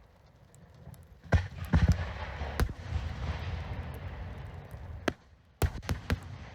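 Fireworks bursting: a few sharp bangs in quick succession, then a low rumbling crackle lasting a couple of seconds. Another quick series of sharp bangs follows near the end.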